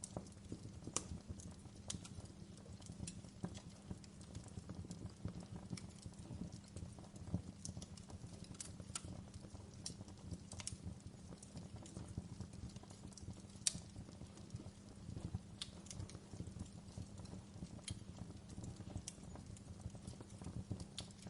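Wood fire in a fireplace crackling: irregular sharp snaps and pops over a steady low rumble of the flames, with a few louder pops scattered through.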